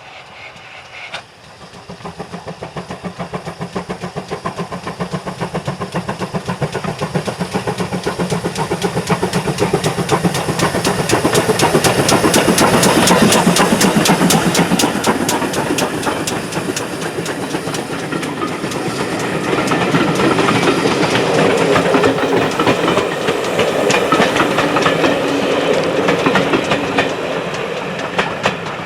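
Steam-hauled train running by, with a fast, even rhythm of sharp beats from the locomotive and wheels on the rails. It grows louder to a peak about halfway through, eases, then swells again towards the end.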